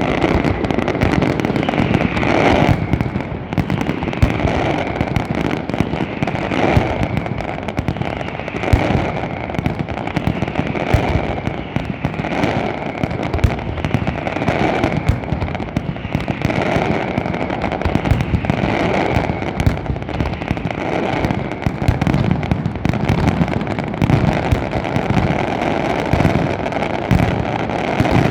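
Large aerial fireworks display in full barrage: rapid bangs and crackling follow so closely that they merge into one continuous din.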